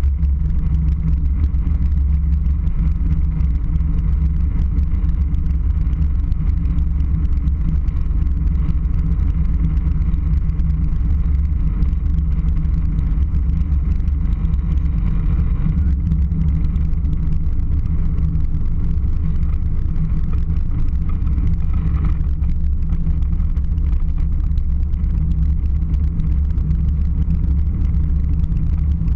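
Airliner cabin noise: a loud, steady low rumble of engines and airflow that holds even throughout.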